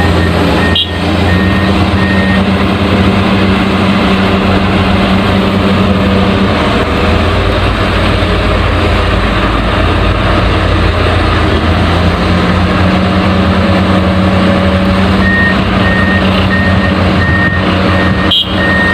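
Backhoe engine running steadily, with a reversing alarm beeping near the start and again near the end.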